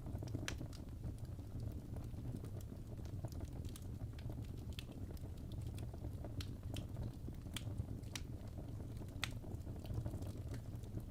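Fireplace fire crackling: a steady low rumble with sharp pops and crackles at irregular moments.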